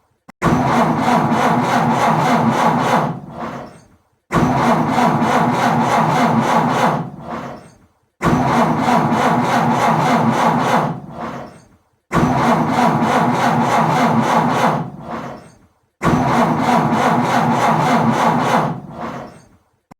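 Car engine cranking on the starter without catching, five attempts about four seconds apart. Each attempt starts suddenly, runs about three seconds, then winds down to a stop.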